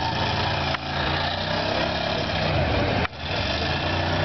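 Demolition-derby hearses' engines running hard under load as the cars shove against each other, with tyres spinning and smoking. The sound briefly drops out twice.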